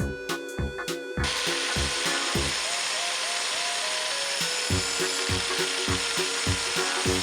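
A power tool working material, a steady dense hiss starting about a second in, over background music with a regular beat.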